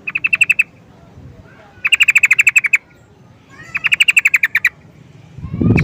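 Yellow-vented bulbul (trucukan) calling in short bursts of rapid, evenly spaced chattering notes, three bursts about two seconds apart, with a fourth starting right at the end. A low thump comes just before the end.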